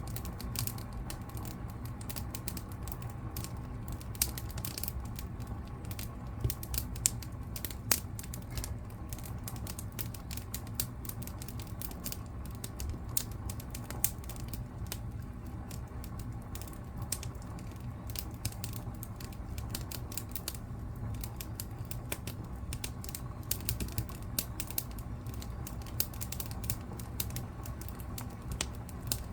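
Wood fire burning in a fireplace: dense, irregular crackles and pops over a steady low rumble, with a few louder snaps.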